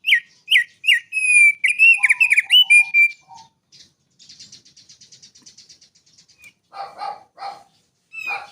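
Songbird singing. It opens with a quick run of loud whistled notes that slide down in pitch, then gives a faint, fast, buzzy trill, and ends with a few harsher, lower notes.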